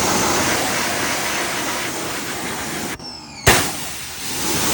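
Ryobi pressure washer's water jet hissing as it blasts mud off the motorcycle. The spray cuts out for about half a second around three seconds in, then starts again with a sharp click.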